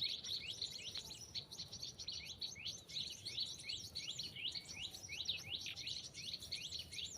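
Small birds chirping continuously, a rapid run of short, high, rising and falling notes with no pause.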